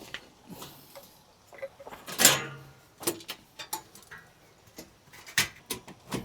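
A series of light clicks and knocks from objects being handled, with one louder knock and rattle about two seconds in.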